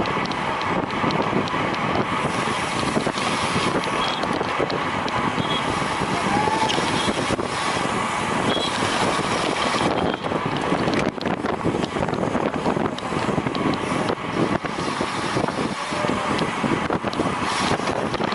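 Steady wind rushing over the microphone of a road bicycle ridden fast in a race, with the bike's running noise beneath it.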